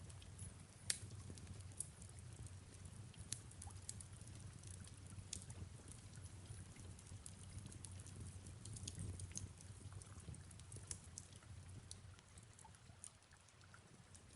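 Faint fireplace crackling: irregular sharp pops and ticks over a low steady rumble, with soft rain falling underneath.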